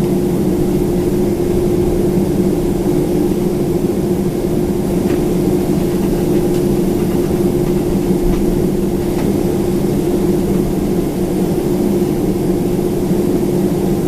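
Steady cabin drone of a Boeing 767-400ER's General Electric CF6 jet engines running at idle, a constant hum with two steady low tones, with a few faint clicks around the middle.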